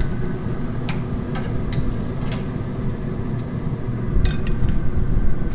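A pellet grill running in sear mode over open flames gives a steady low rumble. Several light clicks and taps come through it as chicken wings are laid on the grill grate, three of them close together near the end.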